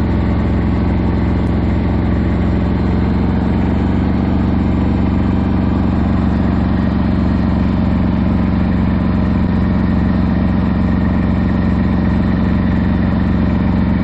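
Four-wheel-drive mini tractor's engine running at a steady speed as it is driven.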